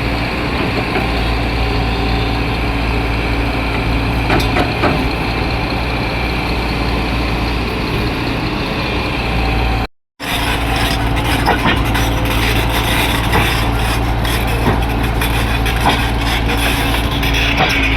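Heavy diesel machinery running steadily at a soil-loading site, an excavator working beside trucks. The sound cuts out briefly about ten seconds in, then comes back with more clattering and knocks on top of the engine.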